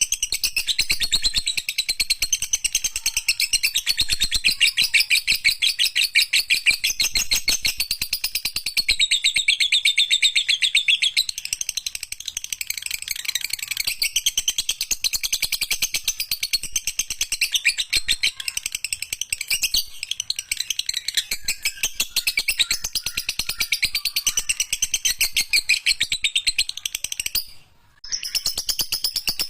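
Lovebird singing a long, unbroken 'ekek panjang' chatter: very fast, high chirps strung together without pause, breaking off briefly near the end.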